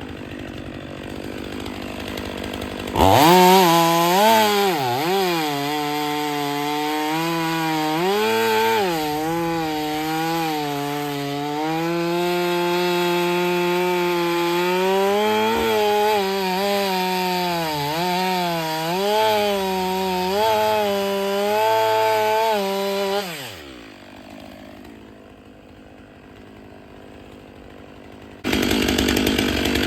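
Stihl 500i gas chainsaw at full throttle cutting firewood logs, the engine pitch sagging and recovering again and again as the chain bites and clears the cut. It comes up sharply about three seconds in, falls back to a lower level about 23 seconds in, and is loud again near the end.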